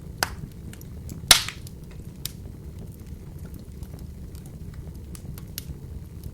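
Open wood fire burning with a steady low rumble and scattered crackles; a sharp pop a little over a second in is the loudest, with a smaller one just before it.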